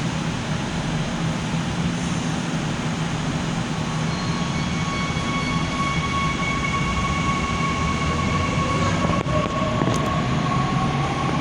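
Seoul Subway Line 9 electric train running, a steady rumble with several steady electric-drive tones; about three-quarters of the way through, a motor whine rises in pitch as the train speeds up, with a couple of short clicks.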